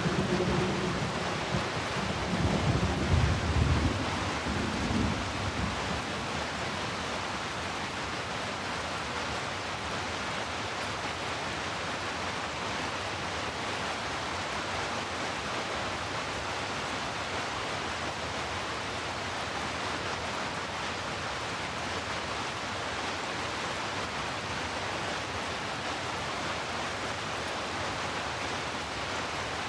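Heavy rain as a steady, even hiss of noise. A low rumble of thunder dies away over the first few seconds.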